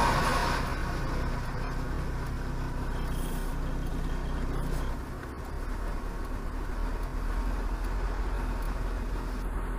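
Dashcam audio in a waiting car: a steady low engine hum and traffic noise, opening with a brief louder noisy burst.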